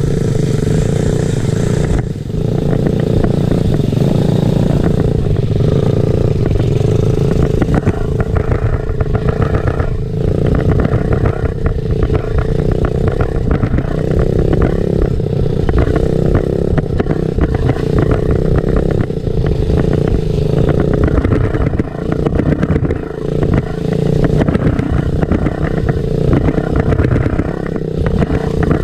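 Small off-road motorcycle engine running continuously as the bike is ridden, the throttle rising and easing off with brief lifts about 2, 10 and 22 seconds in.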